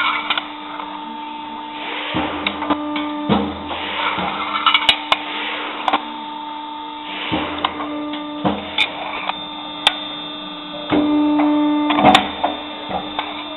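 Boschert corner notching machine running with a steady motor hum, through a series of cutting strokes heard as dull thumps and several sharp metallic clicks.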